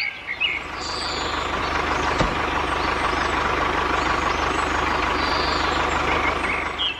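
Engine running steadily with a fast, even low chugging under a dense rattle, like a truck or tractor engine.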